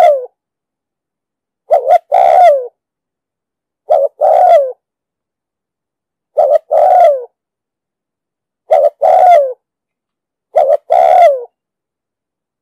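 Spotted dove cooing loudly, a lure call repeated about every two seconds. Each phrase is two short coos followed by a longer coo that drops in pitch at the end, five phrases in all.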